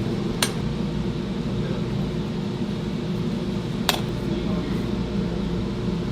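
A steady low mechanical hum, with two sharp clinks about three and a half seconds apart.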